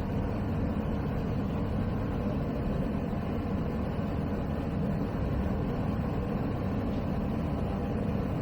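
Zenith CH 701's Zonsen C100 engine, a Rotax 912ULS clone, and its three-blade propeller running steadily in flight on the downwind leg, heard from the cockpit.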